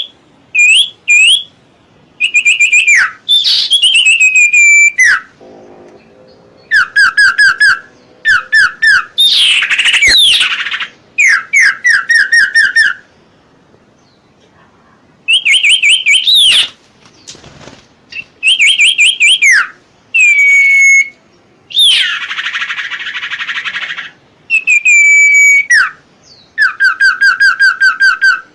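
Songbird (the bird sold in Indonesia as serpu or cipoh) singing loud, clear whistled phrases. Each phrase is a quick run of repeated, sharply falling notes, with pauses of a second or more between phrases. About two-thirds of the way through comes a harsh rasping call lasting about two seconds.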